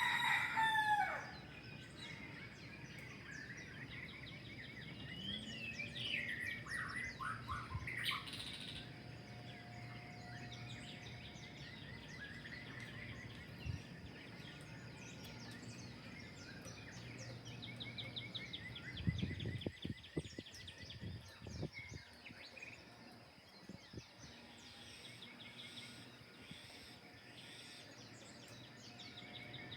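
Dawn chorus of many birds calling and singing at once, with repeated chirps, trills and sliding whistles. It is loudest at the start, and a few dull knocks come about two-thirds of the way through.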